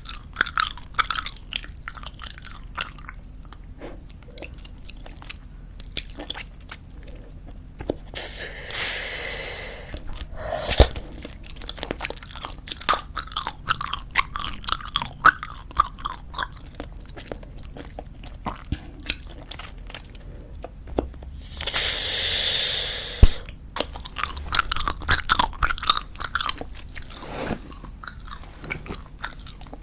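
Close-miked chewing of squeeze-tube bubblegum: a steady run of wet clicks and smacks. Twice, about eight and twenty-one seconds in, a couple of seconds of breathy hiss as a bubble is blown, each ending in a sharp pop.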